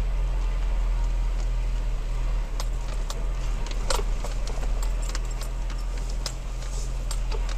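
Third-generation Toyota Tacoma driving slowly along a rough dirt trail, heard from inside the cab as a steady low drone. From about two and a half seconds in come scattered sharp clicks and rattles of loose things jostling as the truck bounces.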